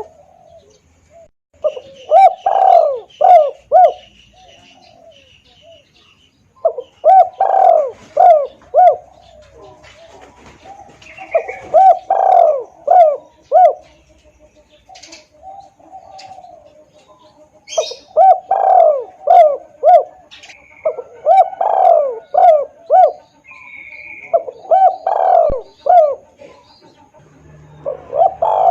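Spotted dove (tekukur) cooing: about seven phrases of several quick, evenly spaced coo notes each, repeated every few seconds, as played for a bird lure. Faint chirps of other birds sound between the phrases.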